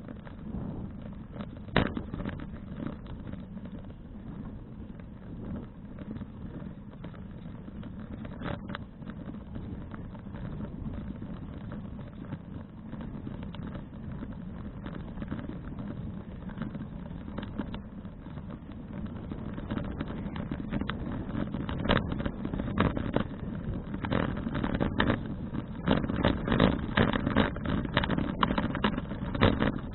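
Bicycle riding noise picked up by a bike-mounted action camera: a steady low rumble of wind and tyres, with scattered clicks and rattling knocks. About two-thirds of the way in it grows louder, and the knocks come thick and fast.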